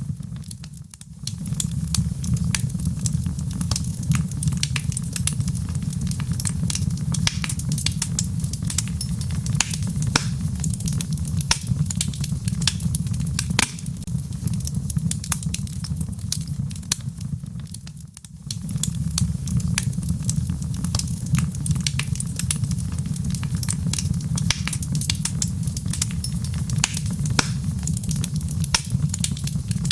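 Log fire burning in a fireplace, with dense crackling and popping over a low, steady rumble of flame. The sound dips briefly about a second in and again around 18 seconds in.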